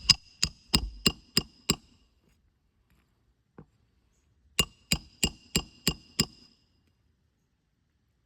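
Roofing hammer striking a metal roof snake to drive a nail back in under a lifted shingle, each blow ringing. Two runs of six quick strikes, about three a second, with a single light tap between them.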